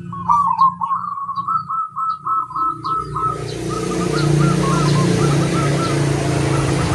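Zebra dove (perkutut) cooing a fast rhythmic chain of short notes, with small birds chirping high above it. About three seconds in, a steady traffic noise swells up and the dove's notes grow faint beneath it.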